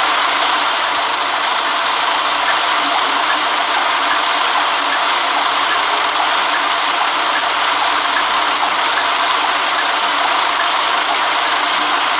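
Steady running noise of a city bus heard from inside, a constant rush of engine and road noise with no change in pace.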